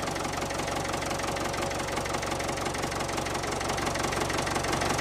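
Small engine of a miniature DIY tractor running steadily with a fast, even clatter, just after being started.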